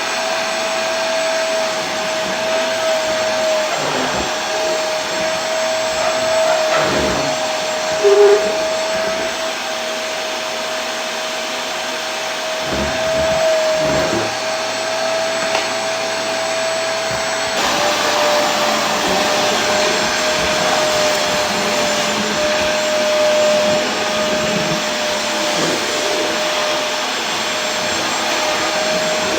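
Vacuum cleaner running steadily, a rushing noise with a high motor whine whose pitch steps slightly lower about two thirds of the way through. A brief louder tone sounds about eight seconds in.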